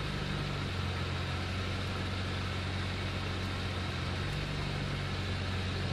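Nissan Skyline GT-R R33's twin-turbo straight-six engine idling steadily, heard from inside the cabin.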